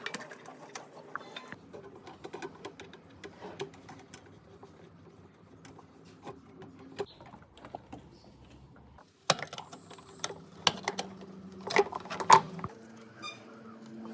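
Irregular light clicks and taps over a low steady hum, with a cluster of louder, sharper knocks in the last few seconds.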